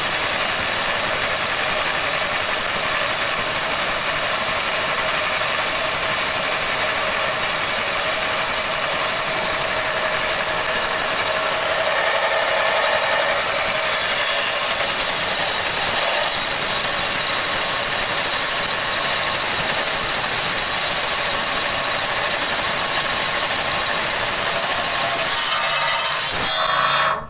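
Homemade metal-cutting saw driven by a 2000 W brushless motor, its alloy blade running and cutting steel with a loud, steady high-pitched whine and grinding. The motor stops abruptly near the end.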